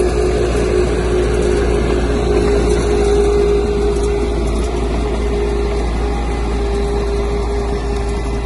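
Heavy diesel engine of earthmoving machinery running steadily, with a steady hum over the engine noise.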